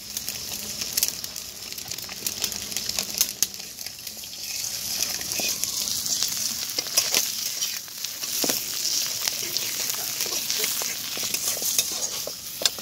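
Sliced onions sizzling as they fry in hot oil in a metal karahi, with a metal spatula stirring and scraping against the pan in short clicks now and then.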